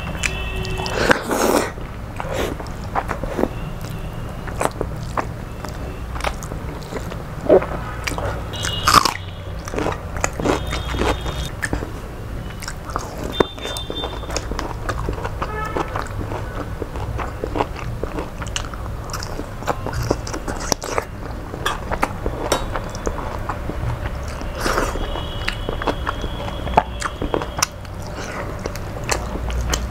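Close-miked eating: a person chewing and biting mouthfuls of rice, noodles and curry eaten by hand, with many short wet mouth clicks and smacks all through.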